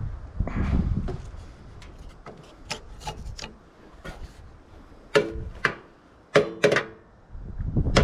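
Scattered clicks and knocks of scrap metal parts being handled, with two louder metal clanks about five and six and a half seconds in that ring briefly.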